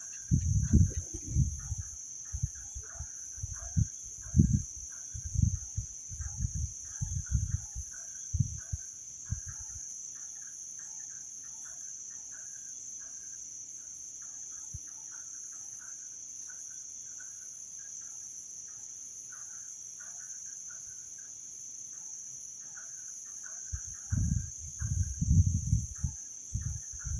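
Night insects, crickets among them, chirring steadily and high, with a scatter of short, quieter chirps beneath. Irregular loud low rumbles and bumps come through the first ten seconds and again near the end.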